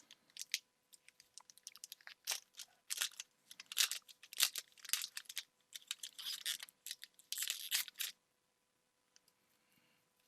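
Foil Pokémon booster pack wrappers crinkling and tearing as packs are opened and the cards are handled: a run of short crinkles and rustles that stops about eight seconds in.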